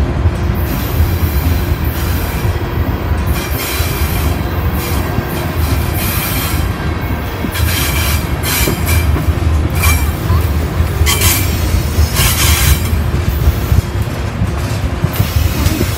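Freight train cars rolling past with a steady low rumble, broken by repeated short rattles and squeals of the wheels on the rails.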